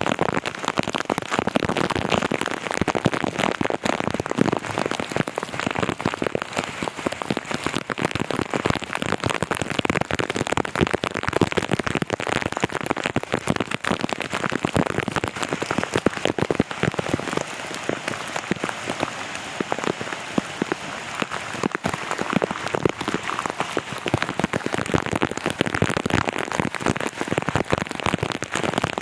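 Heavy rain falling steadily, a dense, loud patter of countless drops.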